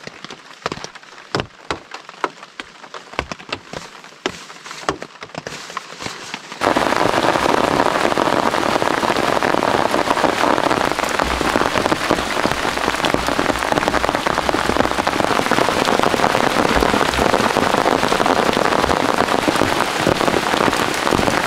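Rain on a camping tent: first scattered single raindrop hits on the tent fabric, heard from inside the tent, then about six and a half seconds in an abrupt change to loud, steady heavy rain falling on the tent and the forest.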